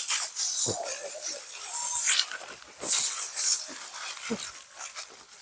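Asian elephants snuffling and blowing air through their trunks at close range while reaching for food, in several short breathy blasts, the strongest near the start and about three seconds in.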